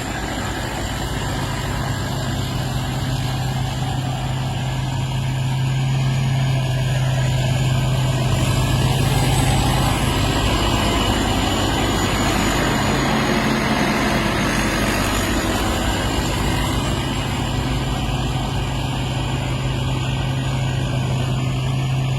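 Combine harvester's engine running steadily, a strong low hum under constant machine noise, growing a little louder over the first few seconds.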